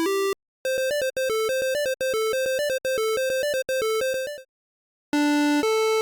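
8-bit style synthesized beeps, like a chiptune. After a brief held tone comes a fast run of short beeps stepping up and down in pitch for about three and a half seconds, fading at the end. After a short pause, a slower sequence of longer tones alternating between two or three pitches starts near the end.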